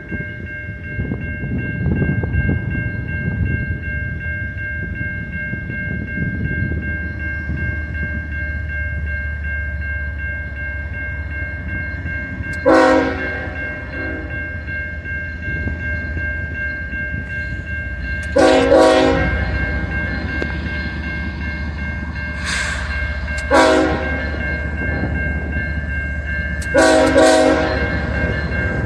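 Diesel locomotive air horn sounding four blasts, long, long, short, long (the grade-crossing signal), over the steady low rumble of the train. A constant high ringing tone runs underneath.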